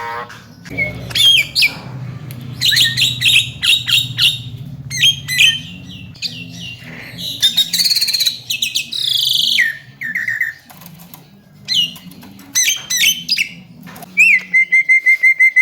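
Javan myna (jalak kebo) singing in full voice: a rapid, varied run of whistles, chirps, rising and falling glides and harsher notes. It ends in a held steady whistle. A faint steady low hum runs underneath.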